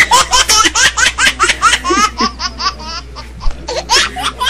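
A person laughing hard in rapid, high-pitched bursts of about six or seven a second. The laugh trails off after about three seconds and breaks out again briefly near the end.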